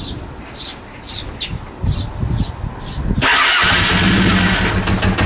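Freshly rebuilt Honda CB400 inline-four engine on a start attempt: low uneven thuds, then about three seconds in it fires and runs loud with a steady note.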